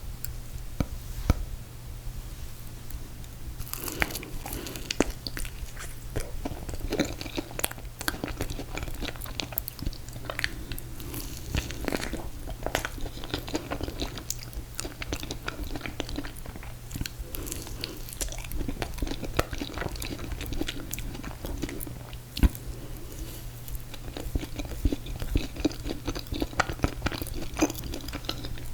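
A person chewing and biting ice cream cake close to the microphone, with repeated crunchy bites and short clicks, over a low steady hum.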